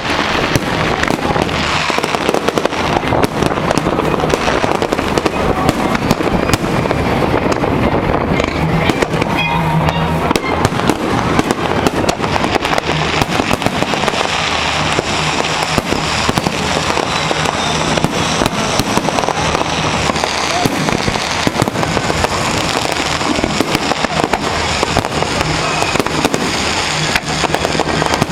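Fireworks display: a dense, unbroken run of bangs and crackles from many shells going off in quick succession.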